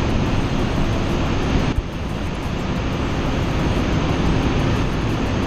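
Loud, steady drone of a large ship's engine-room machinery: a constant hum under a broad hiss of running fans and engines. The hiss eases slightly just under two seconds in.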